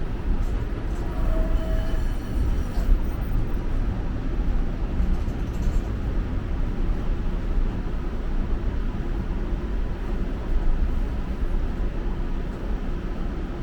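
TTC Flexity Outlook streetcar running along the track, heard from inside the car: a steady low rumble of wheels on rails, with a few faint brief tones in the first couple of seconds.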